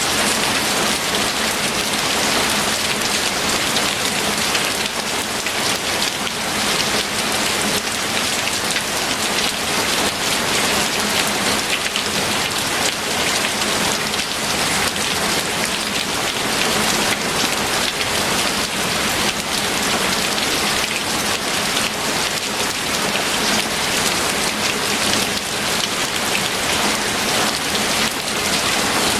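Steady rain falling, a dense even hiss of many individual drops hitting a surface.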